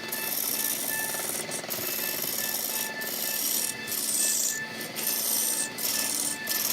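A tool scraping and cutting into wood, a steady rasping noise broken by a few brief dips.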